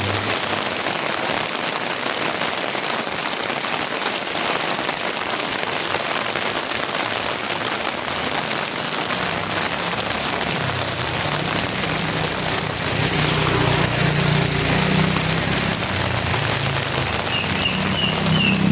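Heavy rain falling steadily on the street and surrounding surfaces. About ten seconds in, a low rumble sets in under the rain and grows louder toward the end, with a few short high chirps just before the end.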